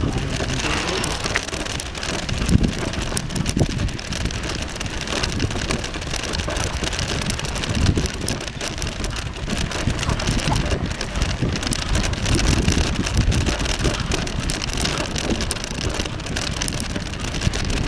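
Steady rushing, crackling noise of a bicycle ride on a dusty dirt path: tyres crunching over the surface and the bike rattling, with wind buffeting the microphone in low swells.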